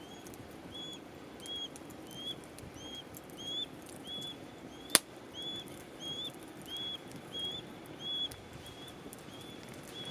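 Wood fire crackling, with one sharp, loud pop about halfway through and faint small crackles. Over it a high chirp repeats steadily about twice a second.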